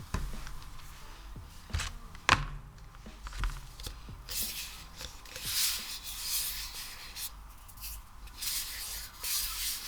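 Hands working a sticky ASMR material: a few sharp clicks or taps in the first seconds, then soft, crackly rubbing and squishing swells from about four seconds in.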